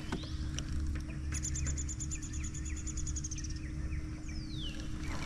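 Songbirds singing: a fast, high, even trill lasting about two seconds, then a single falling whistle, with other short chirps, over a low steady hum.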